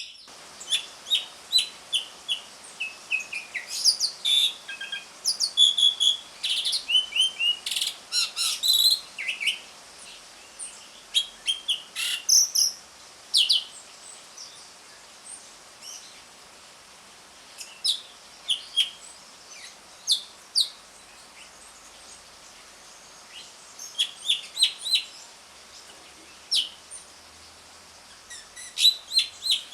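Asian pied starling (jalak suren) giving its 'ngriwik' call: runs of short, sharp, squeaky chirps and chattering notes. They come thick through the first half, then in shorter clusters with brief pauses between.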